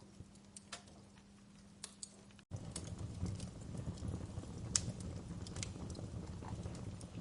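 Wood fire crackling, with irregular sharp pops and snaps. About two and a half seconds in the sound cuts out for an instant and comes back fuller, with a low rush of flames under the crackles.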